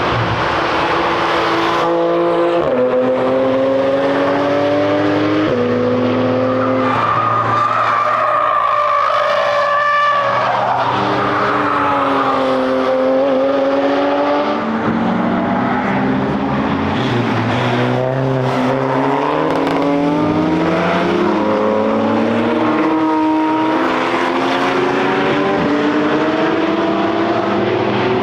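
Cars driving hard on a racetrack, their engines revving up and dropping in pitch with each gear change, with a brief tyre squeal.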